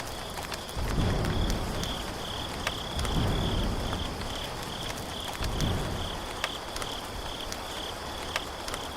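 Insects, likely crickets, chirping in a steady, evenly pulsing high trill, with low rumbling swells and scattered small clicks underneath.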